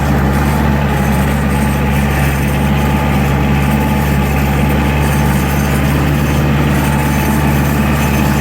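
Diesel tractor engine idling loudly and steadily.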